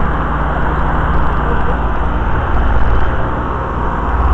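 Two Lennox central air-conditioner outdoor units running together: condenser fans blowing and Copeland scroll compressors humming steadily.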